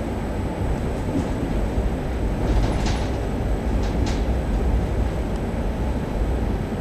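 Steady low rumble of an Austrian Federal Railways (ÖBB) passenger train running on the track, heard inside the carriage. A few brief high clicks come about three and four seconds in.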